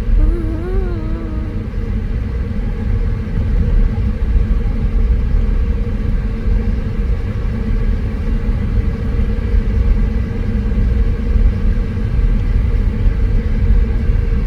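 Car driving, a steady low road rumble heard from inside the cabin, with tyres on an unpaved road.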